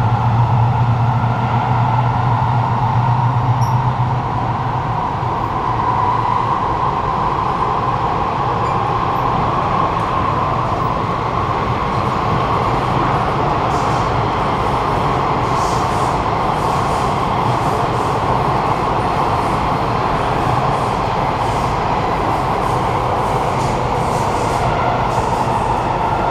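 Cabin noise of a Kawasaki Nippon Sharyo C751B metro train running underground: steady rumble of wheels and traction motors, with a strong low motor hum that drops away about four seconds in. The motor sound on this car is echoey.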